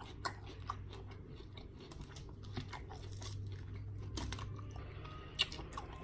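A person chewing food close to the microphone: irregular mouth clicks and chews, with one sharper click about five seconds in, over a faint steady low hum.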